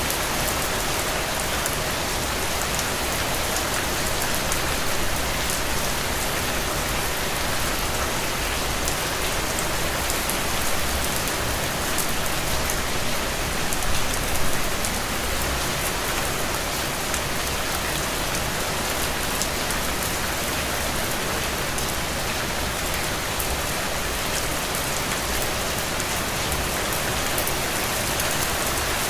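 Heavy, steady rainfall hitting the ground and puddles, a dense even hiss with the fine patter of individual drops.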